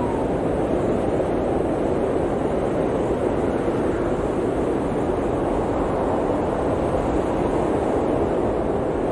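Blizzard wind blowing as a steady, low rushing noise with no distinct gusts.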